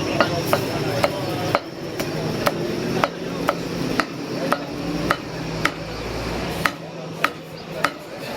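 Cleaver chopping meat on a chopping block: sharp, even strokes at about two a second, kept up steadily.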